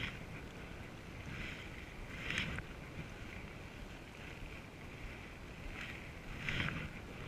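Canoe paddles dipping and pulling through water, giving short splashes every second or two.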